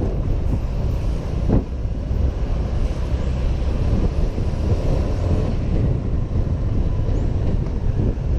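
Wind buffeting a helmet-mounted camera's microphone while riding a motor scooter, with rumbling vehicle and road noise beneath. A short knock about one and a half seconds in.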